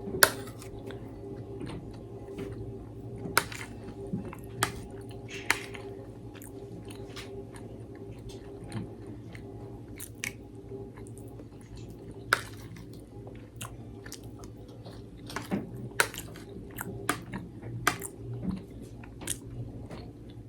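Close-miked chewing and eating: wet mouth clicks and smacks at irregular moments, with a steady low hum underneath.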